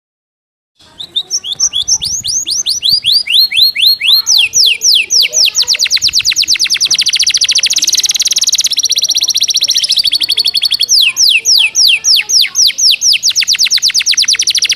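Canary singing a fast, tightly packed song starting about a second in: long rapid trills of short falling notes that change speed from phrase to phrase, with a buzzier stretch midway. The song carries tutored phrases copied from the cinereous tit (gelatik batu).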